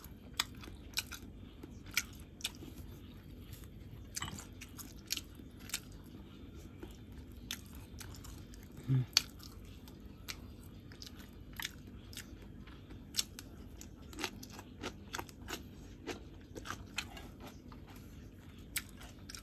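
Close-miked chewing of food, with irregular wet clicks, smacks and crunches from the mouth. A short low hum about nine seconds in.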